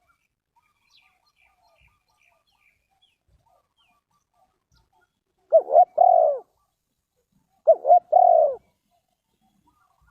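Spotted dove cooing: two phrases about two seconds apart, each two short notes followed by a longer one.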